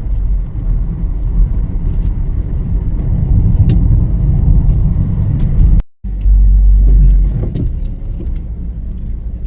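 Car driving, with a steady low road-and-engine rumble. It drops out for a moment about six seconds in, then comes back louder for a second.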